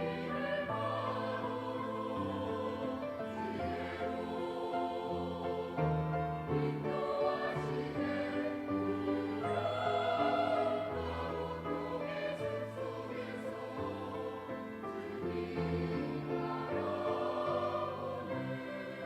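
Church choir singing a sacred anthem over instrumental accompaniment, with held chords and low bass notes that change every second or so; the sound eases off near the end.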